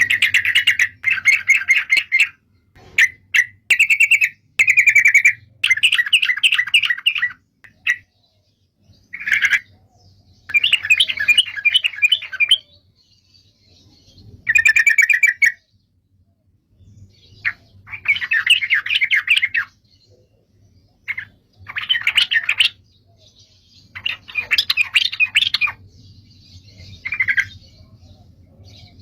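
Songbird singing in short phrases of rapid chattering trills, each a second or two long with brief pauses between, over a faint low hum.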